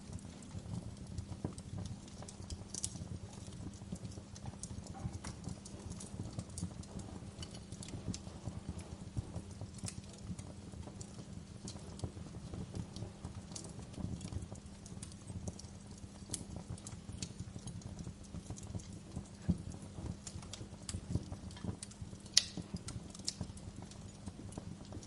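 Wood fire crackling: small pops and snaps at irregular intervals over a low, steady rumble of the flames, with a sharper pop near the end.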